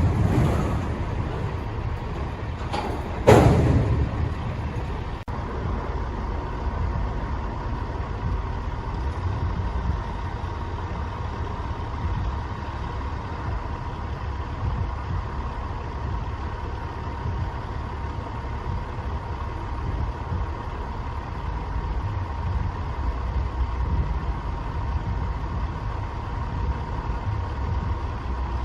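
Diesel switcher locomotives (an EMD GP9 and SW900) working slowly while shoving autorack cars: a steady low rumble with a thin steady high tone over it. About three seconds in comes one sharp, loud burst that fades over a second.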